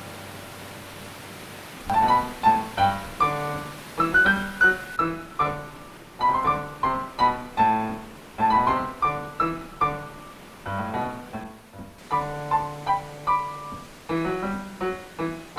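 Piano music: a held chord fades out, then from about two seconds in a stream of struck notes in quick phrases over held low notes.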